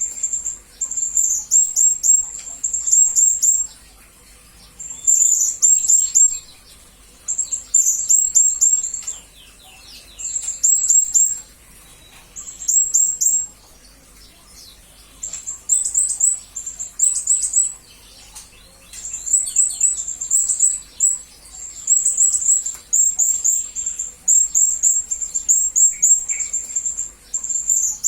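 Blue-crowned hanging parrot (serindit) calling: very high-pitched, rapid chirps in repeated bursts of a second or two, broken by short pauses.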